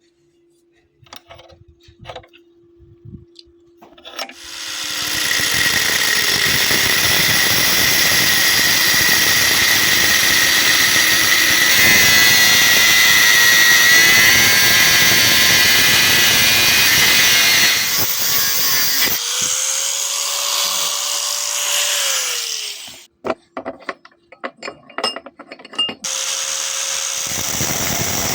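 Angle grinder cutting through a steel bearing ring: a loud, harsh, steady grinding hiss that starts about four seconds in and runs for most of the stretch, then a short run of knocks and clicks before the grinder runs again near the end.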